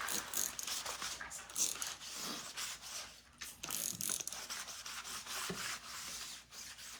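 Irregular light rubbing, scraping and clicks from handling a plastic stencil transfer and craft tools on a work surface.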